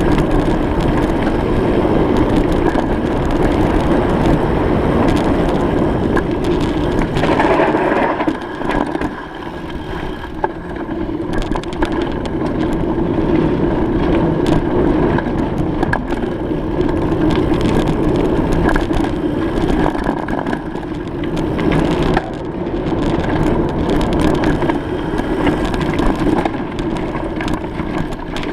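Bicycle being ridden over rough ground: a steady rolling noise from the tyres with constant crunching, clicks and rattles.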